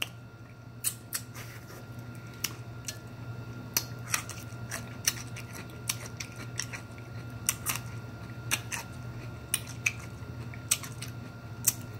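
Close-up eating sounds: a person chewing with irregular wet mouth clicks and smacks, one to a few a second, over a steady low hum.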